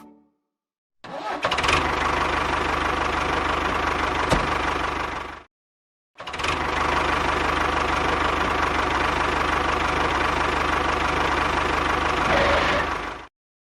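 A small engine running steadily in two runs: it starts about a second in and cuts off after about four seconds, then starts again and runs about seven seconds before stopping abruptly.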